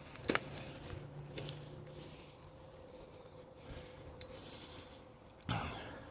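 Faint rustling and handling noise, with a sharp click about a third of a second in and a brief louder rustle near the end.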